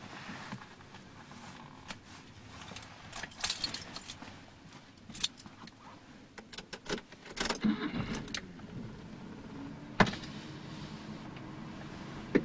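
Car keys jangling with scattered clicks and rattles. About eight seconds in, a dense burst of noise is followed by a steady low hum: the carburetted 1.5-litre four-cylinder of a 1984 Nissan N12 starting and idling. Two sharp clicks follow.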